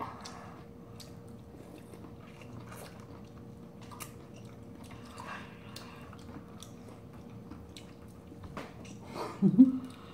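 Close-miked chewing and biting of peeled citrus segments (Cheonhyehyang and orange): scattered small wet mouth clicks and smacks. Near the end there is a short hummed vocal sound, the loudest moment.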